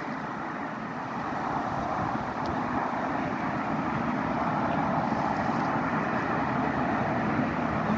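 A steady, even rushing noise with no distinct events, slowly growing a little louder.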